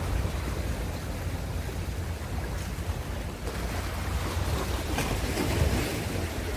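Ocean waves washing in on the shore, a steady surf hiss over a low rumble; a wave swells and breaks in the second half.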